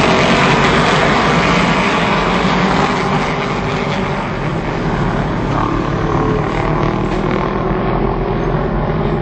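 A pack of racing superbikes' engines running on track: a loud, dense engine noise that eases a little about three seconds in.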